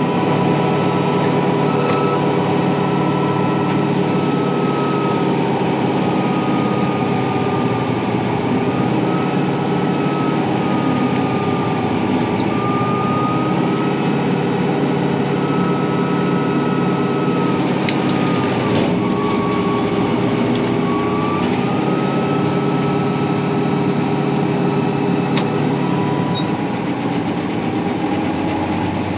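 Kubota M4-071 tractor's diesel engine running steadily under work, with a high whine that sags and recovers in pitch several times, as when the mounted tree saw takes load. A few sharp cracks sound in the second half.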